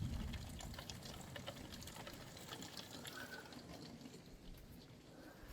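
Faint dripping and trickling of rainwater leaking in through a window's top vent, many small irregular drips over a soft steady wash of water.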